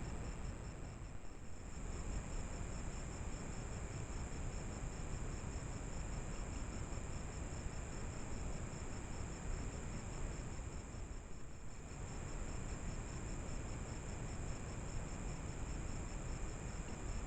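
Steady insect chorus: a continuous high trill with a faster, evenly pulsing chirp beneath it, over a low hiss and rumble from the trail camera's microphone. It dips briefly about a second in and again near the middle.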